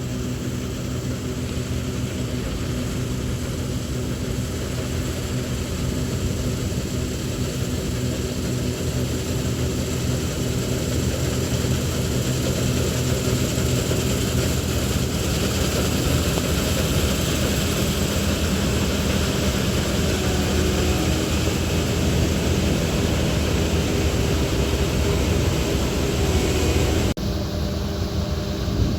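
New Holland CS6050 combine harvester running, a steady continuous engine drone. The sound changes abruptly near the end.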